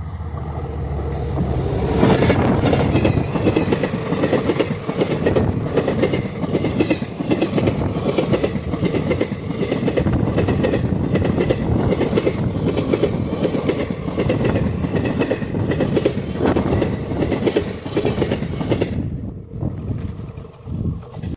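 Indian Railways express train passing at speed, its wheels clattering rapidly over the rail joints. The clatter comes in sharply about two seconds in and drops away near the end.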